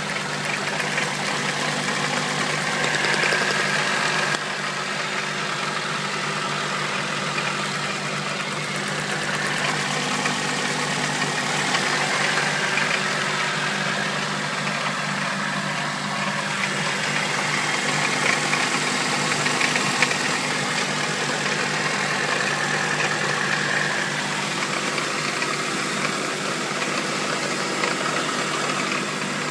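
Honda D16Z6 1.6-litre SOHC VTEC four-cylinder engine running steadily with an abnormal knocking noise, which the owner rules out as a connecting rod bearing; its cause is unknown.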